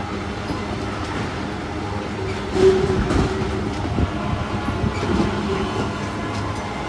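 Freight train passing, wagons rolling by with a steady rumble and irregular knocks.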